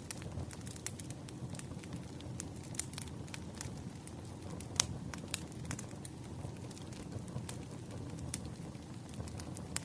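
Firewood burning, crackling with irregular sharp pops and snaps over a low steady rumble of flames; the loudest pop comes about halfway through.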